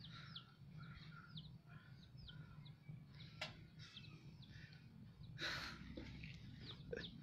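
Faint birds chirping: many short, high calls, each falling in pitch, repeated over a low steady hum. A brief rustle about five and a half seconds in is the loudest sound, and there is a single click a little earlier.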